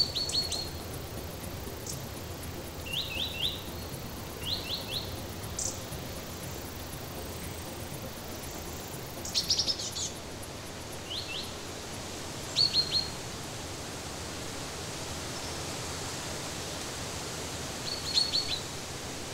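Songbirds chirping in short groups of two to four quick high notes, scattered a few seconds apart, over a steady hiss of forest background noise.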